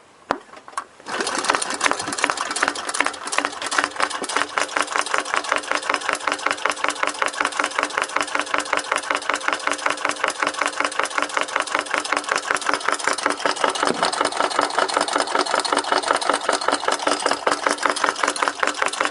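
Small homemade engine starting up about a second in, then running steadily with a fast, even mechanical clatter.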